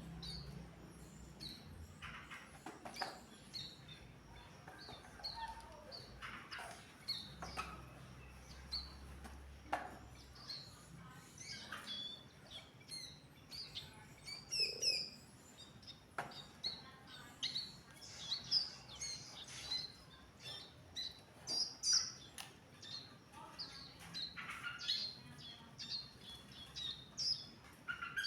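Ciblek gunung, a small prinia, calling in short high chirps, repeated about once a second and getting busier after the halfway point, with a few soft knocks in between.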